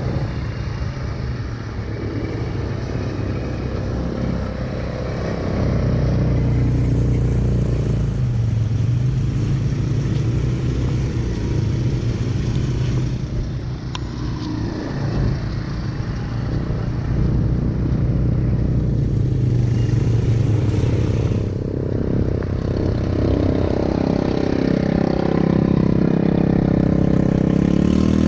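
ATV engine running under way, its pitch rising and falling with the throttle and getting louder about six seconds in.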